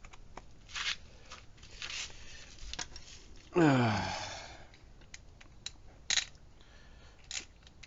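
Scattered small clicks, taps and scraping as engine parts are handled and fitted together. About three and a half seconds in, a short human vocal sound falling in pitch, the loudest thing heard.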